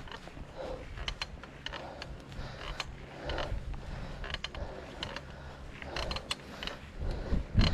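Bicycle drivetrain clicking and creaking as the bike is ridden, over a low rumble, with a loud low thump near the end.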